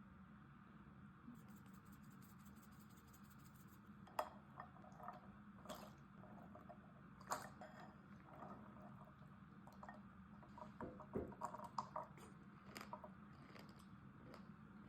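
Faint eating sounds: scattered soft clicks and small wet, squishy mouth sounds of someone chewing a snack, over a low steady hum, a little busier near the end.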